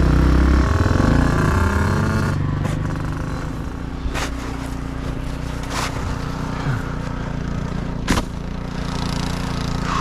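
Small dirt bike engine running loudly and fading away over the first couple of seconds, leaving a steady low engine drone. Three sharp knocks come a couple of seconds apart in the second half.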